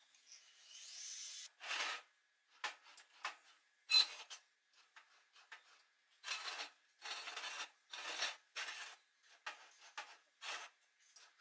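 A series of irregular scraping strokes, like filing or rubbing on a workpiece, with a sharp click about four seconds in.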